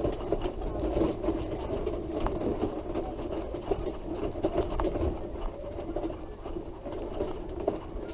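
Wheelchair rolling along a rough, bumpy path: the wheels and frame rattle steadily over the surface, over a continuous low hum.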